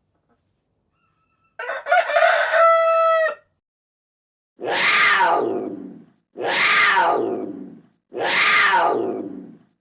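A rooster crowing once, a single drawn-out crow. Then three long animal calls in a row, evenly spaced, each falling in pitch.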